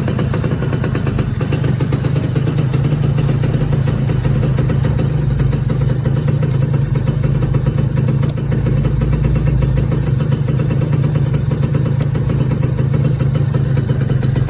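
Suzuki Tornado GS 110's single-cylinder two-stroke engine idling steadily, running smooth in stock factory condition.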